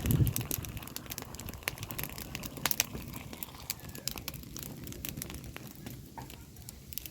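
Food cooking over a wood fire, crackling with many irregular sharp pops and ticks over a low, steady noise.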